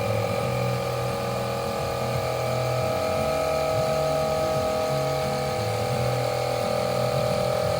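A small electric motor running steadily at one speed with a high whine, over background music.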